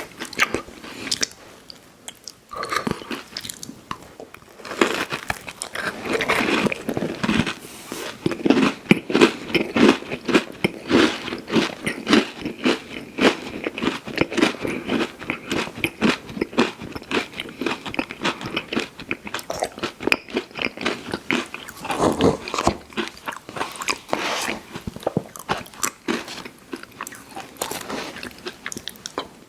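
Close-miked eating sounds: someone biting and chewing candy, a dense run of quick small crunches and clicks with louder bursts of chewing now and then.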